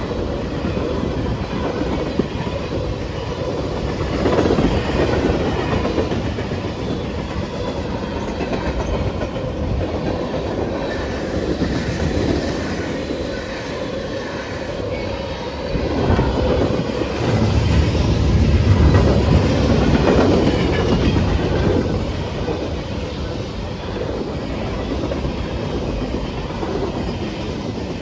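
Train cars rolling past with wheels clacking over rail joints, a steady rolling rumble that swells louder and deeper for several seconds past the middle.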